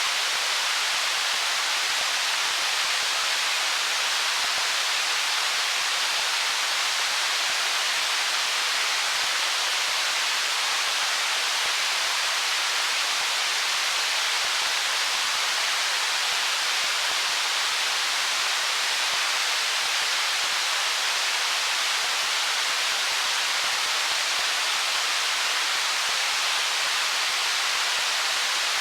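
Stream water flowing over stones: a steady, even rushing hiss with little low rumble.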